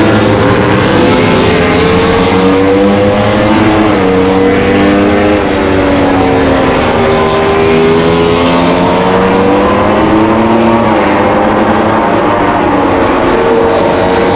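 Several racing motorcycle engines running at once, their overlapping notes slowly rising and falling in pitch as the bikes ride around.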